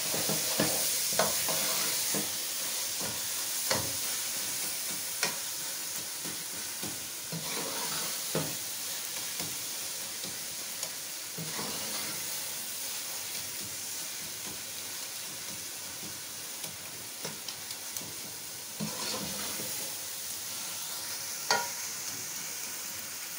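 Pumpkin halwa with khoya sizzling as it fries in oil in a metal pot, stirred and scraped with a metal spoon that now and then clicks against the pot. A steady sizzle with scattered sharp clicks.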